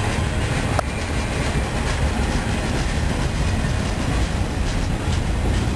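Freight cars rolling past at close range: a steady rumble of steel wheels on rail, with one sharp metallic clank about a second in and the click of wheels over rail joints later on.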